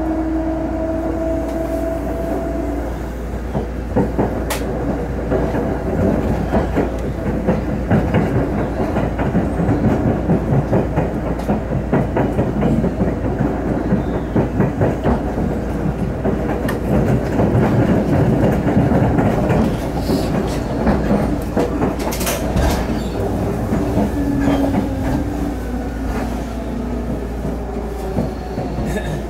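Seibu 10000 series limited express electric train running, heard from inside the passenger car. A whine from the electric motors rises slightly over the first few seconds and then stops. After that come a steady rumble of the running gear and repeated wheel clicks over rail joints, with a short whine again about two-thirds of the way through.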